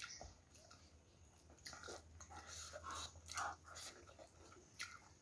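Faint chewing and wet lip-smacking of a person eating rice and chicken curry by hand, with scattered soft mouth clicks.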